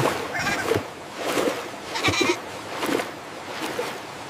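Wordless cartoon character voices: a run of short, bleat-like cries and squeals with a few sound-effect clicks.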